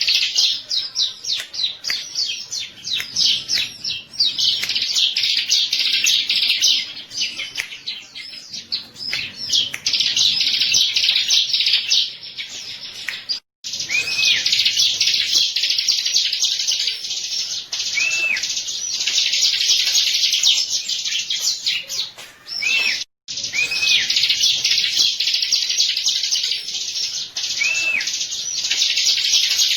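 Bar-winged prinia (ciblek) singing: a dense, rapid run of high-pitched chirps and trills, with a few lower arched whistled notes in the second half. The song cuts out briefly twice, just before the middle and about two-thirds of the way through.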